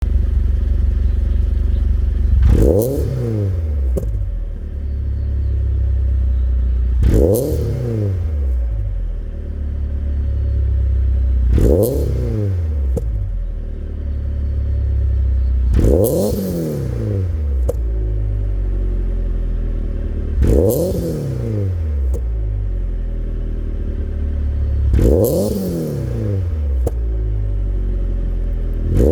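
Supercharged Toyota 86 boxer four idling and being blipped through its street-legal aftermarket muffler: about six quick revs, one every four to five seconds, each rising sharply and dropping straight back to idle, with a short click soon after each.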